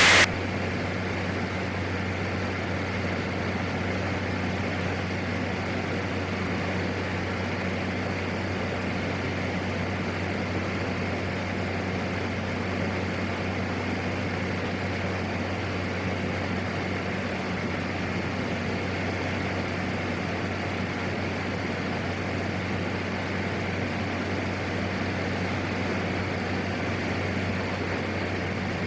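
Steady drone of a PAC 750XL's single turboprop engine and propeller in flight, heard from the cockpit: a constant low hum with a rushing noise over it, unchanging throughout.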